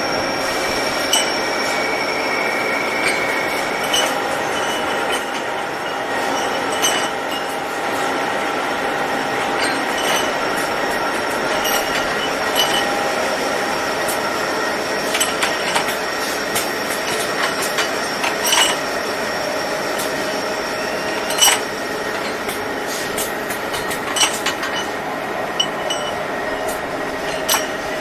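Double surface grinder running, grinding connecting rods: a steady grinding noise with several high, steady tones and scattered sharp clicks.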